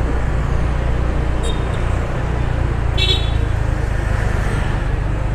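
Steady low rumble of a car driving through town traffic, with a short high-pitched tone about three seconds in.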